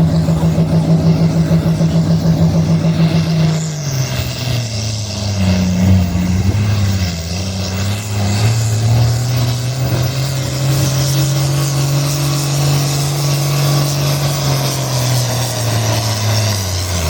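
Engine of a pulling vehicle running hard under load with a pulsing exhaust. About three and a half seconds in its pitch drops and wavers, then it holds steady again, falling away near the end.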